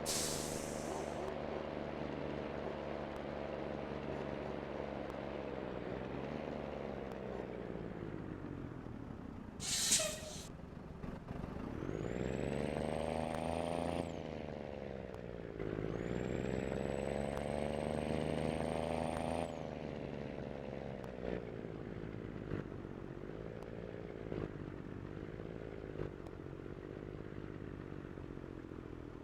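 Scania truck's diesel engine pulling through the gears: its pitch climbs twice and drops suddenly at each gear change, with a high whistle rising along with the revs. A short hiss of air comes at the very start, and a stronger one about ten seconds in.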